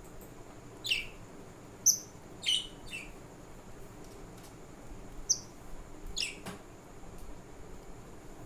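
Budgies chirping: about six short, sharp chirps, some sliding down in pitch, spread over several seconds with gaps between them.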